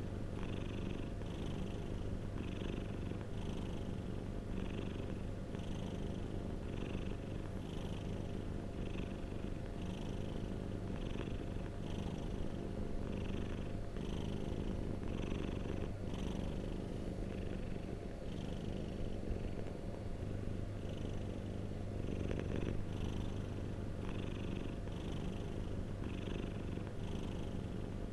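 Domestic cat purring continuously: a steady low rumble with a regular swell about three times every two seconds.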